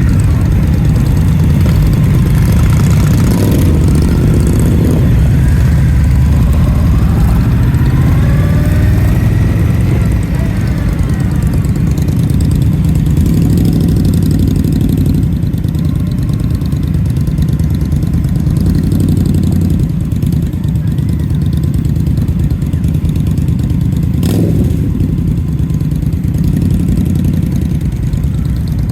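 Indian motorcycle's V-twin engine running steadily, with a pitched whine that rises and falls between about six and twelve seconds in, and a single sharp knock near the end.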